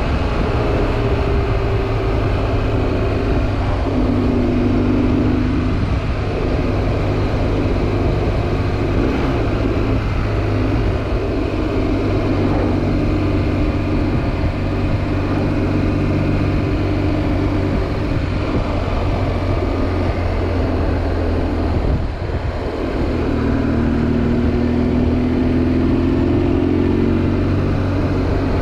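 BMW R1200GS Adventure's boxer-twin engine running through an aftermarket Dominator exhaust with the dB killer removed, under way on the road. Its note rises and falls several times as the throttle changes, with a long rise near the end.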